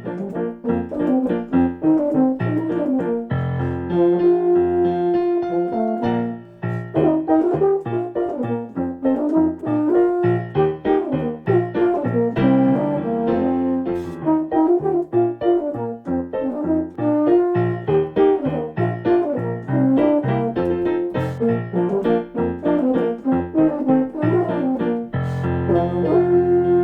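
Euphonium playing a Grade 5 exam solo over piano accompaniment, in many short notes with some held ones.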